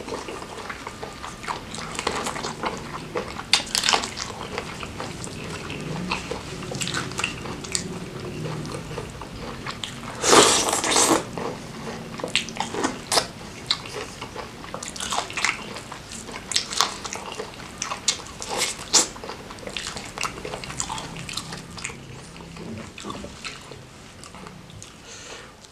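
Close-miked eating of sauce-coated corn and seafood: irregular chewing, biting and wet lip-smacking clicks. About ten seconds in comes one louder, noisy burst lasting about a second.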